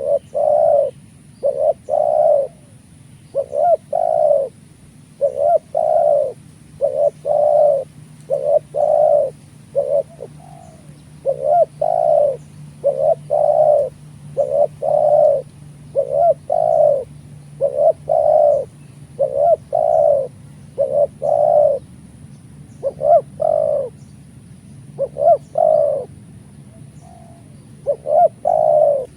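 Spotted doves (tekukur) cooing over and over: short low coos in pairs and triplets, repeating with little pause.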